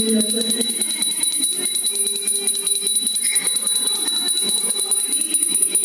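Music with small bells jingling in a fast, even rhythm.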